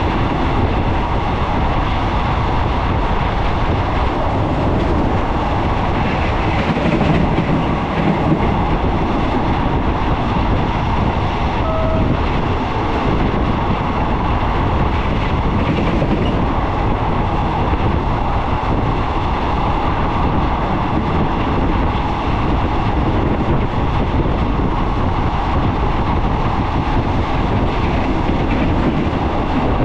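Train running along the rails: a steady, loud rumble of wheels and track that neither builds nor fades.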